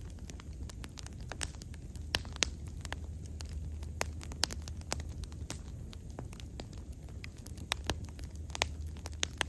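Bonfire crackling, with irregular sharp pops and snaps scattered through, over a low steady rumble.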